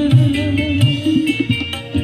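Music played through a 6-inch speaker box under test, with a heavy bass line that changes note every fraction of a second, a higher melody on top and light percussive ticks.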